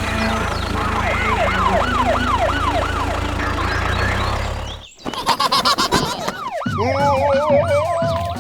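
A siren wailing in quick repeated rise-and-fall sweeps, about one and a half a second, over a low steady hum. It cuts out briefly near five seconds, then returns with a few more sweeps and a wavering held tone.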